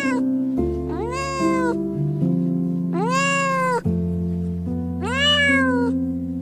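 A domestic cat meowing repeatedly, one long meow about every two seconds, each rising then falling in pitch, over soft piano music.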